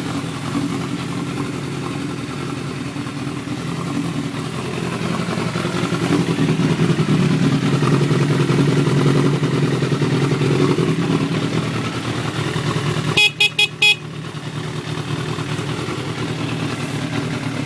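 Yamaha YZF600 inline-four engine idling steadily through a Yoshimura 4-into-1 exhaust, a little louder for a few seconds in the middle. About thirteen seconds in, the motorcycle's horn gives four quick short beeps.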